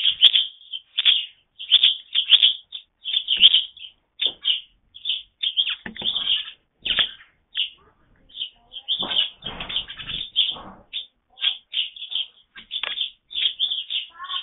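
Birds at a feeding station: an irregular run of short, sharp, high sounds, two or three a second, with a brief lull about eight seconds in.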